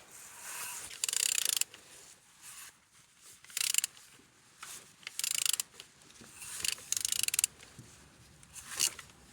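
Ratchet wrench clicking in short rasps, about six strokes a second and a half apart, as a used engine's crankshaft is turned over by hand; the engine turns freely.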